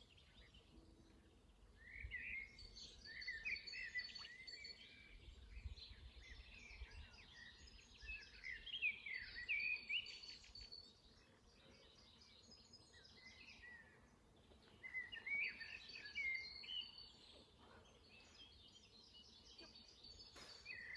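Garden birds singing, with quick chirps and warbles coming in busy spells and short lulls between.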